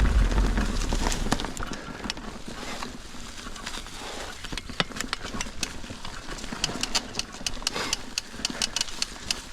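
Mountain bike rolling over a rocky trail: tyre noise on rock and dirt with a run of sharp rattles and clacks from the bike, thickest in the second half. Wind rumbles on the microphone at the start.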